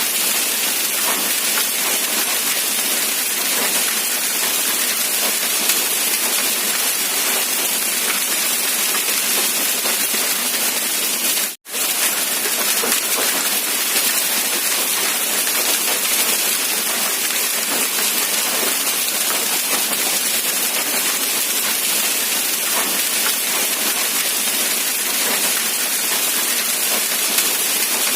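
Steady heavy rain falling, a dense, even hiss. It cuts out for a split second about halfway through.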